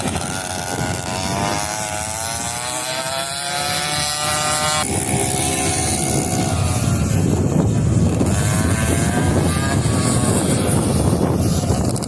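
Motorcycle engine running and revving, its pitch climbing over the first few seconds; about five seconds in the sound changes abruptly to a rougher, noisier engine sound that rises again near the end.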